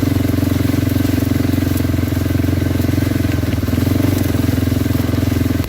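Kawasaki Brute Force 300 ATV's single-cylinder engine running at a steady speed while the quad is ridden along an old railroad bed.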